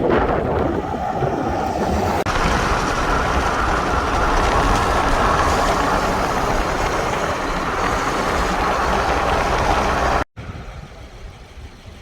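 Loud steady rush of wind and road noise. It cuts off abruptly about ten seconds in, and a much quieter background follows.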